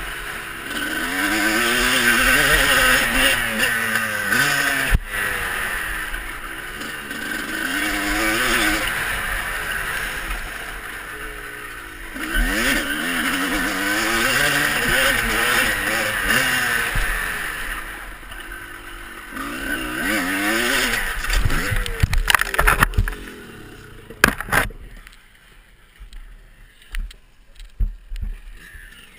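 Motocross bike engine being ridden hard, revving up and dropping back over and over as the throttle opens and closes and the gears change. About twenty-two seconds in the engine fades away and a few sharp knocks follow.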